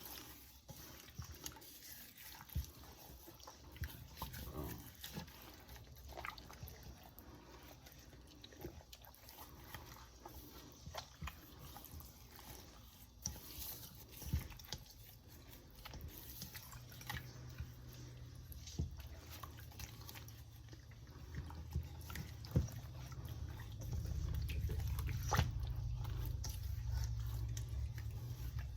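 Hands rubbing seasoning into a raw whole chicken and working it under the skin: quiet wet squishing and slapping with scattered small clicks. A low hum comes in about halfway through and gets louder near the end.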